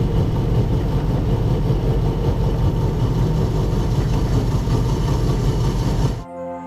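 Heavy vehicle engine running steadily with a deep rumble. About six seconds in it cuts off suddenly and music begins.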